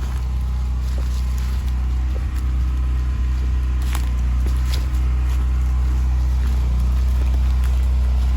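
Steady low hum of a running engine, unchanging throughout, with a few faint ticks about halfway through.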